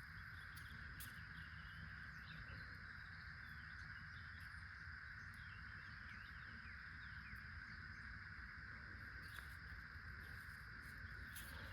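Faint outdoor farm ambience: a steady, unbroken insect drone with scattered short bird chirps over it and a low rumble underneath.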